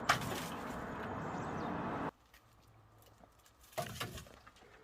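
Cut green logs knocking as they are handled and loaded into a small truck's bed: a sharp knock at the start and another about four seconds in. A steady rushing noise runs under the first two seconds and cuts off suddenly.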